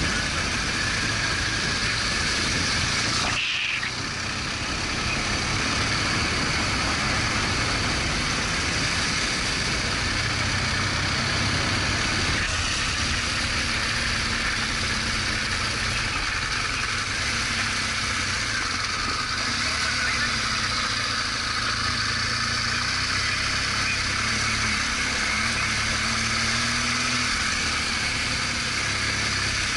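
BMW R1200GS Adventure boxer-twin motorcycle running steadily while riding, its engine under a constant rush of wind and tyre noise, with a brief dip about three and a half seconds in.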